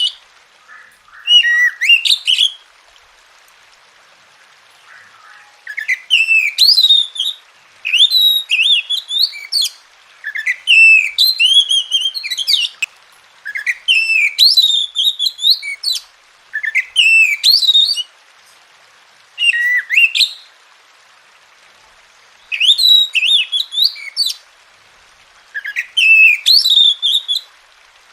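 An oriental magpie-robin singing in loud, whistled song phrases that swoop up and down in pitch, about ten of them, each a second or two long, separated by short pauses. There are longer lulls a few seconds in and again past the middle.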